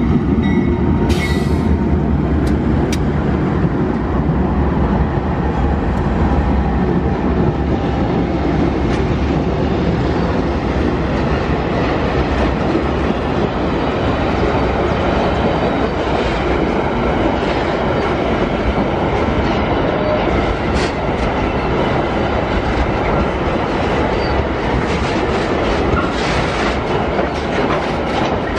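Freight train passing close by: the lead GE AC44i diesel-electric locomotives rumble past first, then a long string of the pig-iron train's gondola wagons rolls by with a steady clickety-clack of wheels over the rails.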